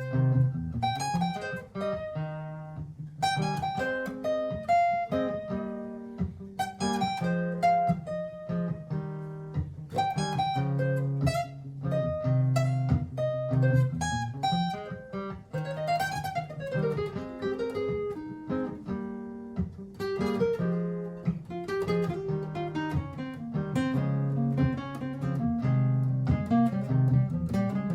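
Martin GPCPA4 acoustic-electric guitar playing a looped strummed chord pattern, with an improvised picked lead line layered over it and a sliding note about halfway through.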